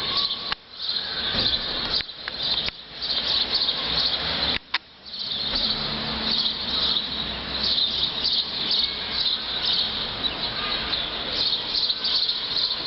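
Outdoor insect chorus: a steady, pulsing high-pitched chirping. The sound cuts out briefly twice, once about half a second in and again for about half a second near the middle.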